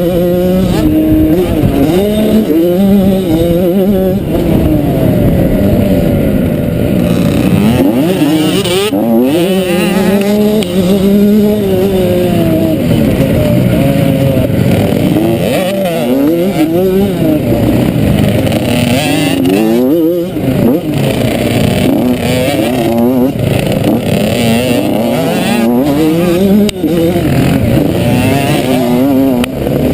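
Motocross bike engine being ridden hard, its pitch rising and falling again and again as the rider opens and shuts the throttle through the gears.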